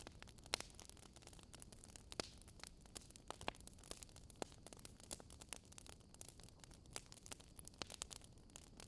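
Wood fire crackling: irregular sharp pops and snaps, several a second and of varying strength, over a faint steady hiss.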